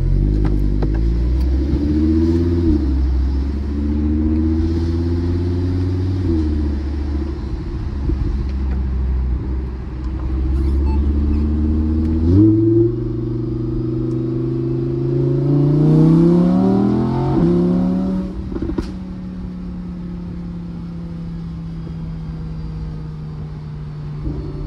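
2018 Audi R8 V10 Spyder's 5.2-litre V10 heard from the cockpit: running at low revs with two short rises, then about halfway through the pitch steps up and climbs as the car accelerates. There is a sharp crack near the end of the climb, and the engine then settles into a steady cruise.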